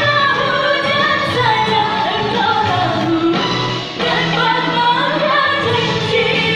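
Pop-style song with singing over instrumental backing, the vocal line gliding through held notes; a short pause comes about four seconds in before it picks up again.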